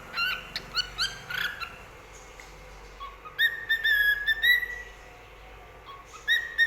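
Pet birds chirping in quick short calls for the first second and a half. About halfway through comes one long whistled note lasting about a second, and another begins near the end.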